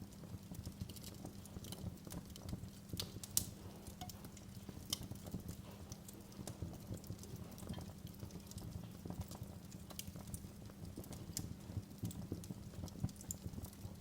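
Wood fire crackling in a fireplace: a steady low rush of the flames with irregular sharp pops and snaps, a louder pop about three seconds in.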